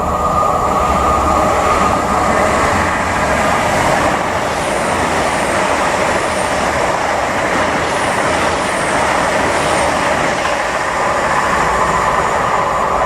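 A train running past, a steady mix of rail and engine noise with a held whine, cut off abruptly at the end.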